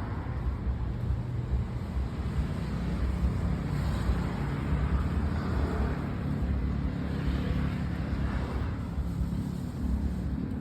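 Honda Monkey mini bike with a Kitaco 124 cc fuel-injected single-cylinder four-stroke engine running with a steady low engine note.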